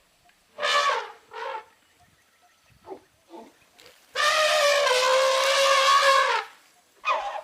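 An animal calling: two short calls about a second in, two faint ones, then one long call of about two seconds held on a nearly steady pitch, and another beginning near the end.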